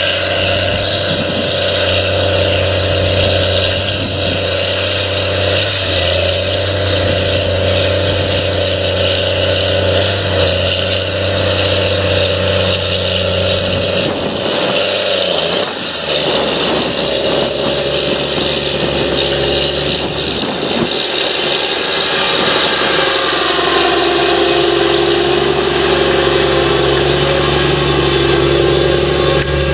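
A steady, loud engine-like drone made of held tones, which change pitch about halfway through and settle into a new steady set.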